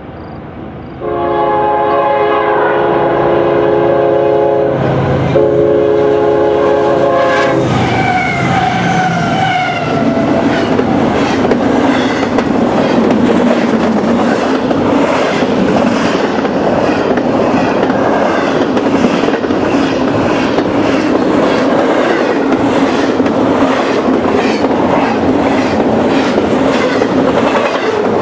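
A CSX double-stack intermodal train, led by a GE ES40DC locomotive, sounds two long horn blasts as it approaches. The locomotives pass close by with their pitch dropping. Then come the steady clatter and rhythmic clickety-clack of the container well cars' wheels over the rail joints.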